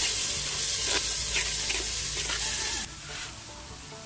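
Red spice paste frying and sizzling in oil in a large metal pot while being stirred, with a few sharp scrapes of the spoon against the pot. The sizzle drops off suddenly near the end, leaving a quieter hiss.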